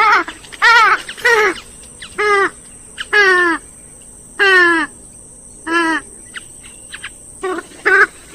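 Grey-headed swamphen calling: a series of about ten short, loud calls, each falling in pitch, coming at irregular intervals of roughly half a second to two seconds.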